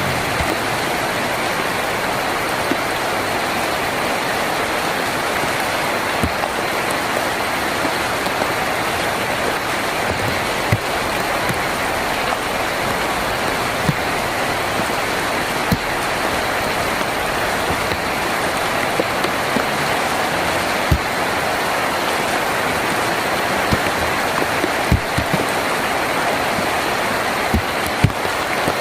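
Heavy rain drumming steadily on a tin roof, an even hiss. Now and then a heavier drop lands with a short, dull knock, most often in the second half.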